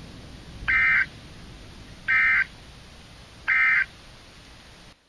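Emergency Alert System end-of-message data bursts: three identical short, buzzy electronic chirps about a second and a half apart, marking the end of the severe thunderstorm warning broadcast.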